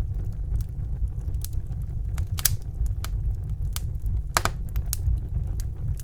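Wood fire burning in a fireplace: a steady low rumble of the flames with irregular sharp crackles and pops from the burning logs, a stronger pop about two seconds in and the loudest one past four seconds in.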